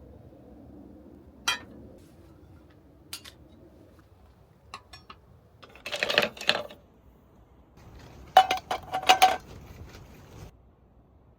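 Dishes and utensils being handled: a few separate clinks, then a burst of clattering about six seconds in and a louder run of clatter and clinks near nine seconds, the last with a brief ringing tone.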